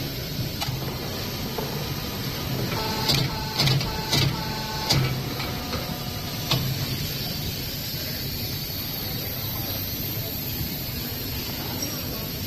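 Steady machine hum, with a cluster of sharp clicks and short whirring tones about three to five seconds in and one more click a little later.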